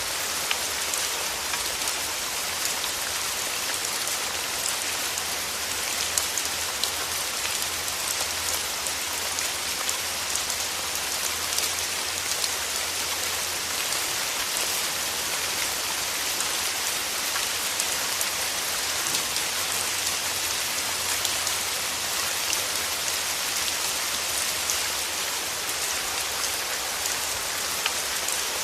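Steady rain falling through forest trees: an even hiss of many drops, with scattered single drops ticking out of it.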